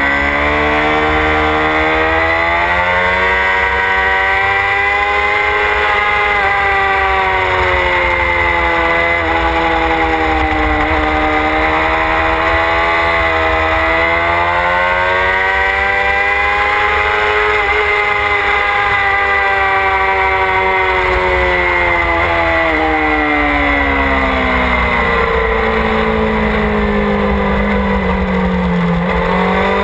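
Motorcycle engine under way, its revs rising and falling in long swells every several seconds as the bike speeds up and slows, with heavy wind rumble on the onboard microphone.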